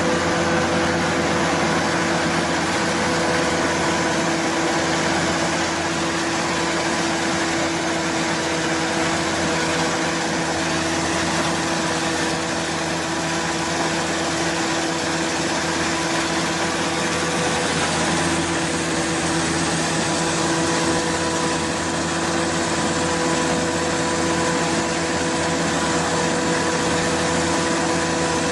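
Large corn thresher and sheller running steadily: a loud, even mechanical noise with several steady hum tones and no change in speed.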